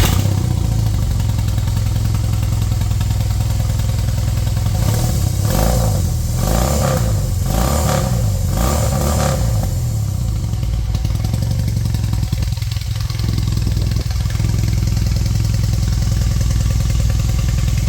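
BMW R18's 1802 cc boxer twin running loud through its modified, de-baffled fishtail exhaust as the bike pulls away and is ridden, revs rising and falling several times in the middle, then settling to a steady drone.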